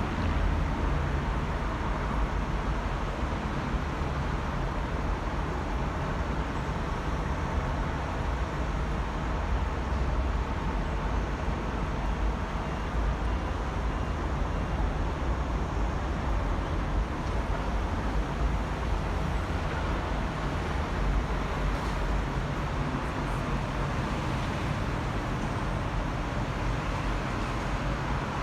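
Steady low rumble of road vehicle noise, even and unbroken throughout.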